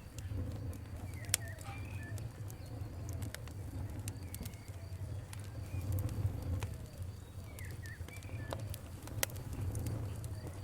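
Campfire crackling, with scattered sharp pops over a steady low rumble of the flames, and birds calling in the background.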